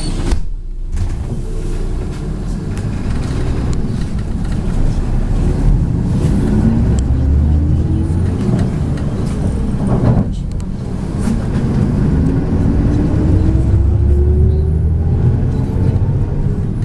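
MAZ 103 city bus engine heard from inside the cabin while accelerating: the pitch rises steadily, drops about ten seconds in as the gearbox changes up, then rises again.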